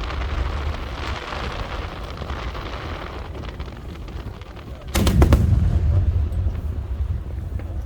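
Aerial fireworks shells bursting: a crackling hiss fades over the first few seconds, then a cluster of loud booms about five seconds in, with a deep rumble after them.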